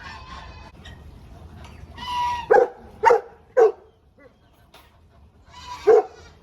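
Farm animals calling: a hoarse call, then three short loud calls about half a second apart, and after a pause another hoarse call followed by two more short calls near the end.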